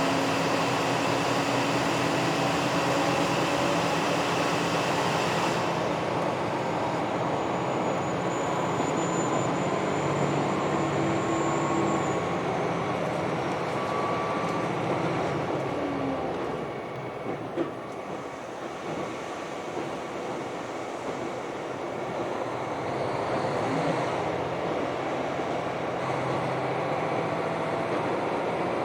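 KiHa 261 series diesel multiple unit running at speed, heard from on board: a steady rumble of wheels on rail and engine, with a thin high whine for a few seconds near the middle and a brief drop in level a little after halfway.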